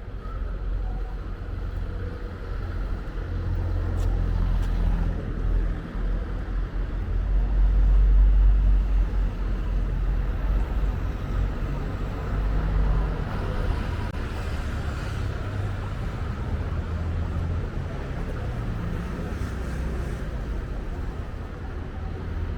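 Town street ambience dominated by a deep, fluctuating rumble that swells to its loudest around eight seconds in, over a steady background hum of the street.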